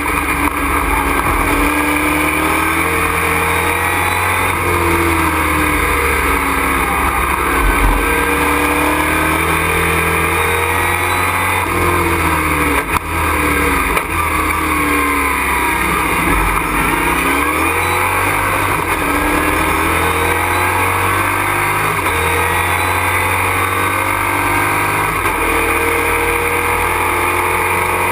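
Race truck's engine heard from inside the cockpit, repeatedly climbing in pitch under acceleration and dropping back through shifts and braking, over a constant rush of road and wind noise. Loudness dips briefly about halfway through.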